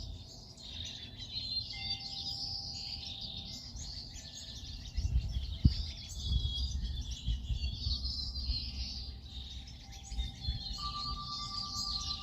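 Many small songbirds chirping and twittering together in a dense, continuous chorus, with a low rumble underneath and a single brief thump a little past halfway.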